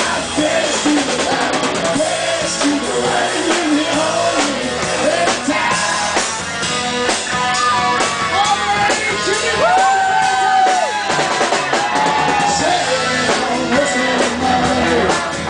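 Live band playing a rock song with drum kit and guitar, and a long held, bending note about ten seconds in.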